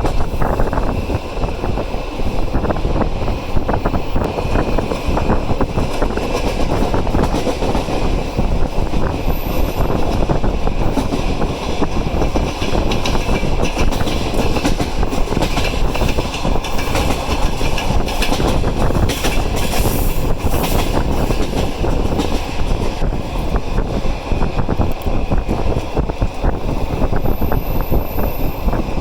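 Passenger train on the move: a loud, steady rumble of wheels on the rails, with many short knocks running through it.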